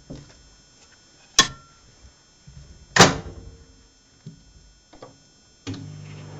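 Microwave oven handled and started: two sharp knocks of the door or its contents, then a few light clicks, and about a second before the end the oven switches on and runs with a steady low hum.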